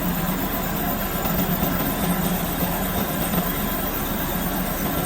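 Metalworking lathe running steadily, a constant low hum under an even mechanical noise.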